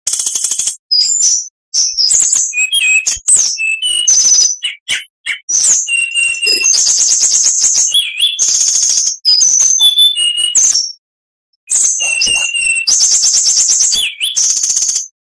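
Oriental magpie-robin (kacer) in full song: a rapid run of varied phrases, fast high trills alternating with short whistled notes that slide up and down. There is a brief pause about eleven seconds in.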